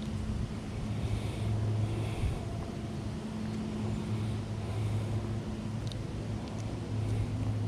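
A steady low motor hum over wind noise.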